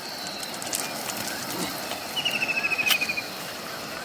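Riverside night ambience: a steady rushing hiss with a faint high insect drone. About two seconds in comes a short, rapid chirping trill, about a dozen notes dropping slightly in pitch, and a sharp click near its end.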